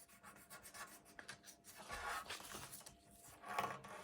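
Faint rustling and rubbing of a sheet of paper being handled and creased by hand while folding a paper airplane.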